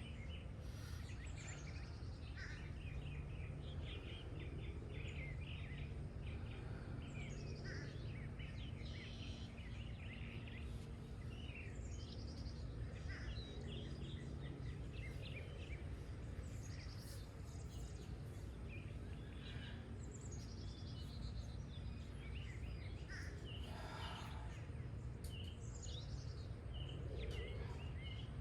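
Several wild songbirds singing and chirping, with short calls and trills coming every second or two over a steady low background hum.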